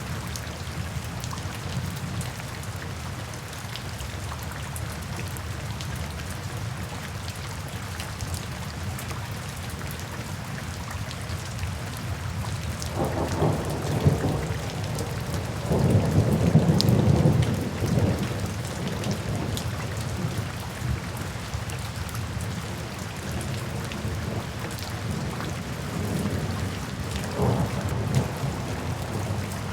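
Steady rain falling, with low thunder rumbling in: a first roll about thirteen seconds in, the loudest from about sixteen to eighteen seconds, and a shorter one near the end.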